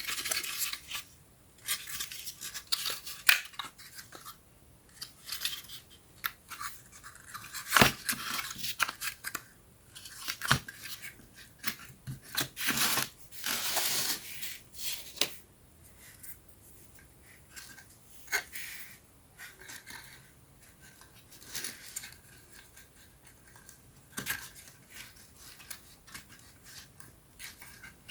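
Thin wooden puzzle pieces being handled and fitted together: irregular light clicks, taps and scraping, with a few sharper knocks.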